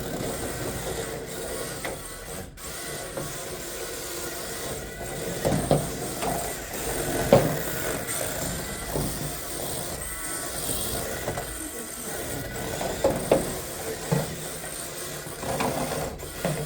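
Small electric motors of RC cars running with a faint high whine, and a few short knocks.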